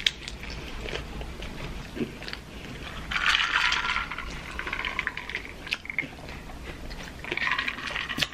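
Close-up eating sounds of fried taquitos: chewing with short sharp crunches and mouth clicks. About three seconds in, a second-long sip and swallow of iced tea from a glass jar, with a shorter noisy stretch near the end.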